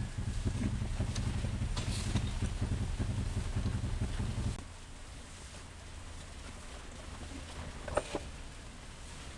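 Honda XRM 110's single-cylinder four-stroke engine running with a steady pulsing beat, then cut off abruptly about halfway through. A short click or knock follows near the end.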